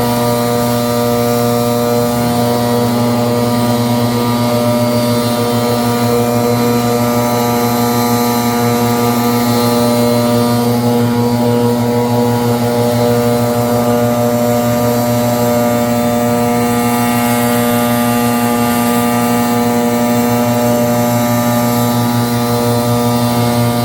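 Gas-powered leaf blower running steadily at constant throttle, a loud, unchanging engine drone with the rush of its air stream.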